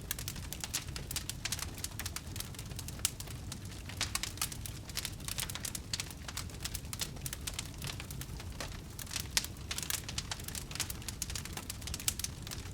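Wood fire crackling: a steady stream of small irregular pops and snaps over a low, even rumble.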